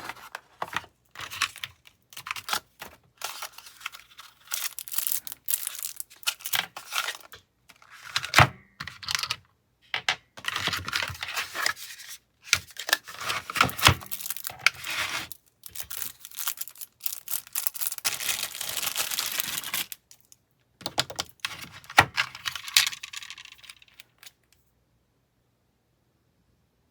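Small packages being torn open and handled: irregular spells of rustling and tearing with sharp clicks and taps, stopping about three seconds before the end.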